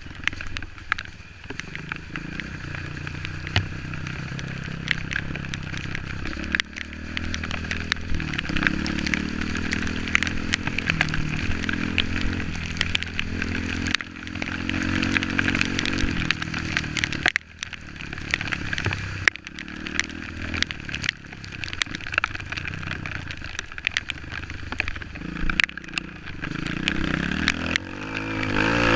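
Off-road trail motorcycle engine running under changing throttle, its pitch rising and falling, with frequent sharp clicks and knocks.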